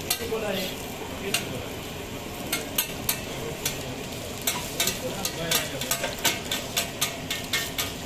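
Parathas sizzling in oil on a large flat griddle (tawa), with sharp clicks of metal tongs striking the griddle. The clicks are few at first and come several times a second in the second half.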